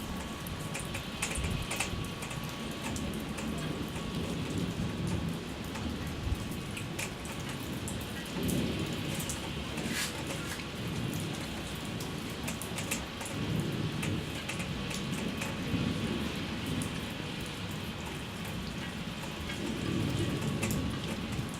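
Steady rain falling, with many small drop ticks and low rumbles that swell every few seconds.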